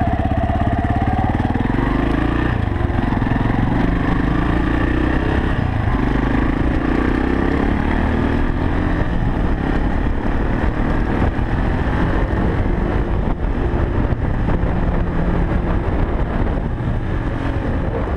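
Irbis XR250 (Viper V250VXR) single-cylinder four-stroke enduro motorcycle engine pulling away and accelerating through the gears, its pitch climbing and dropping back at the gear changes a couple of times before settling into steady running.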